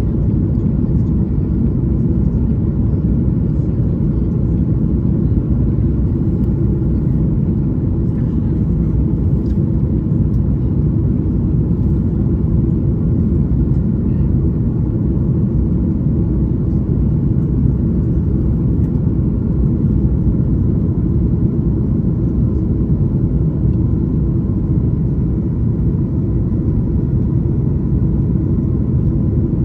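Airliner in flight, a steady low rumble of engines and airflow as heard inside the passenger cabin, unchanging throughout.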